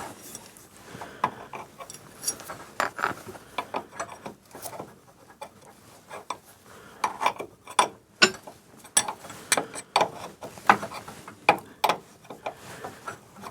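Spanner work on nuts and bolts: irregular sharp metallic clicks and knocks of tools on steel, some in quick runs.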